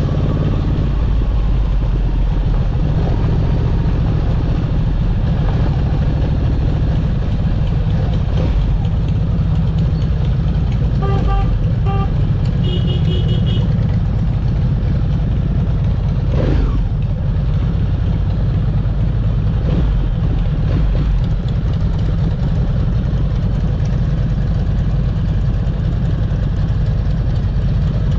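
Motorcycle engine running steadily with road and wind noise, heard from on the bike. About halfway through comes a short string of quick beeps.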